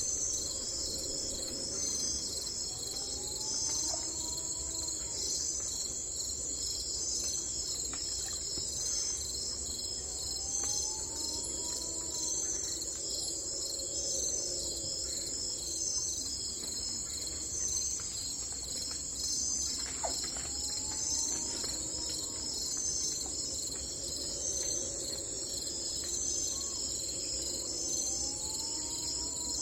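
Continuous chorus of crickets, a steady pulsing high trill. About every eight seconds, a low call that rises and falls sounds over it.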